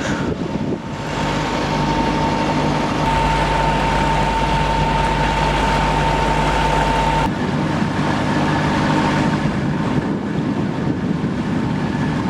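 Hire motor cruiser's inboard engine running steadily under way, with a steady low drone and a thin whine. The sound shifts abruptly about three seconds in and again about seven seconds in.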